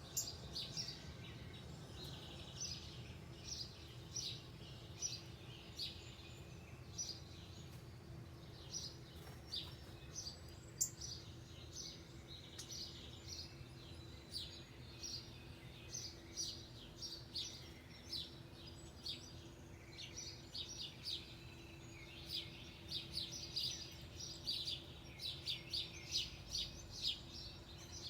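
Small songbirds chirping: many short, high chirps one after another, coming thicker near the end, over a faint steady hum.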